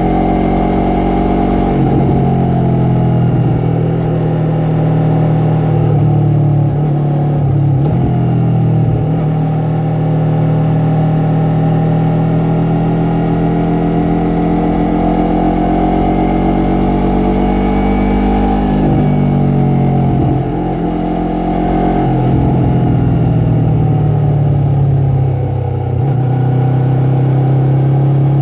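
Yamaha MT-03 motorcycle's engine and exhaust under way, a steady note that drops and climbs in pitch several times as the rider changes throttle and gears.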